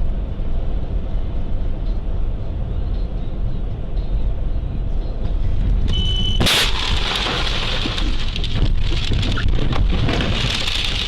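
Car interior road and engine rumble picked up by a dashcam, steady and low. A brief high beep comes just before six seconds, then the sound turns suddenly to a louder, hissier rumble about six and a half seconds in.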